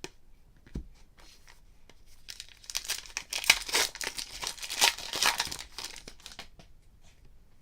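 Plastic wrapper of a football card pack crinkling and tearing open. The crackling begins about two and a half seconds in and stops about a second before the end, after a few light ticks and a soft knock.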